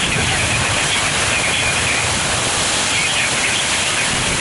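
Heavy thunderstorm rain pouring steadily, an even, unbroken hiss.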